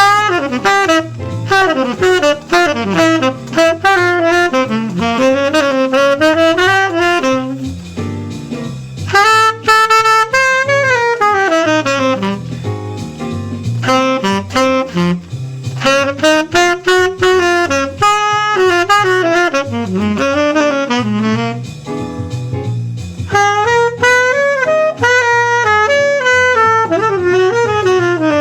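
Jazz saxophone improvising long phrases of quick, flowing runs over a jazz accompaniment with a moving bass line beneath.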